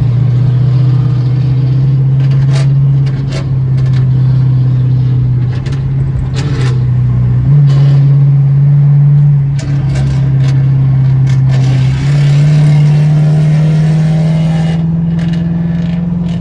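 Straight-piped Dodge Charger R/T's 5.7 HEMI V8 running hard at highway speed, a loud steady exhaust drone. Its pitch steps up and back down a couple of times, then climbs slowly near the end, with a few short clicks over it.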